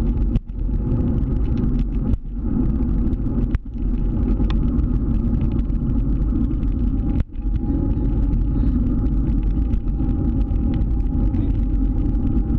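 Scooter riding through city streets: a steady, loud low rumble of the ride, dropping out briefly for a moment four times.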